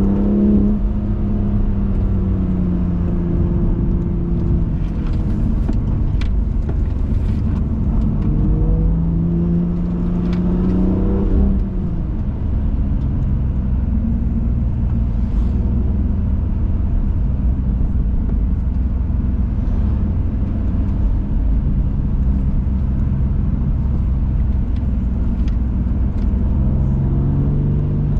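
BMW M2 Competition's twin-turbo inline-six pulling and easing off as the car is driven hard, its engine note rising and falling with the revs over steady road rumble. The engine climbs under acceleration to a gear change about eleven seconds in, where the pitch drops.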